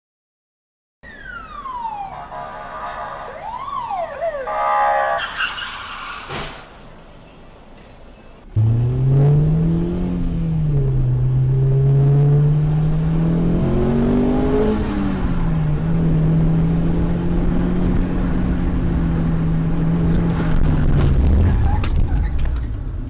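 Siren-like sliding tones for several seconds, then a car engine running loudly, its pitch rising and falling before holding steady.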